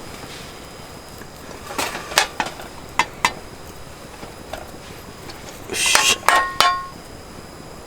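Metal camp cookware and utensils being handled: a few light knocks and clinks, then a louder clatter about six seconds in that ends in a short metallic ring.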